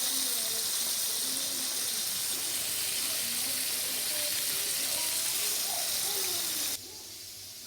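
A steady hiss, like running water or hot oil, with faint voices underneath; it cuts off abruptly near the end.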